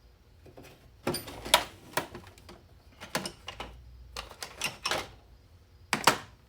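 Metal hand tools clinking and clattering as they are rummaged through in a metal toolbox drawer, in irregular bursts of sharp clicks with a louder double clack near the end.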